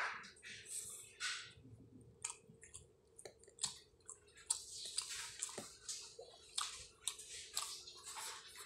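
Close-up chewing and wet mouth and lip-smacking noises of a man eating milkfish and rice with his fingers: many short, irregular smacks and squelches.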